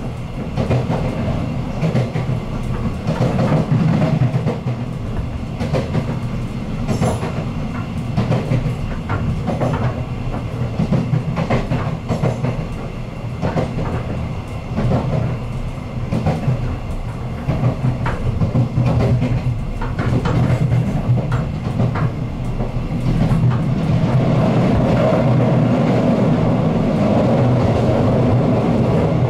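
Taiwan Railway EMU100 electric multiple unit running, heard inside the car: wheels rumbling on the rails with frequent clicks and knocks over rail joints. About 24 s in the running noise turns steadier and a little louder.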